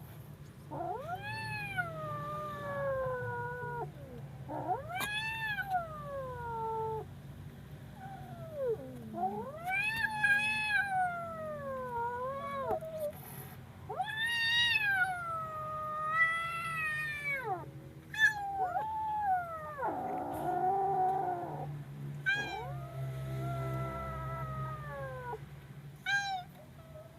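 A frightened kitten giving long, loud, drawn-out meows one after another, each rising and then sliding down in pitch. About twenty seconds in comes a rougher, lower cry.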